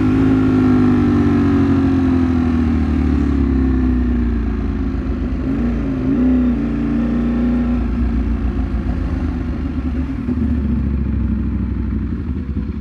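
Ducati Streetfighter V4 S V4 engine heard from on board. Its pitch falls steadily as it slows off the throttle, with a brief up-and-down blip about six seconds in, before it settles to a rougher, lower running.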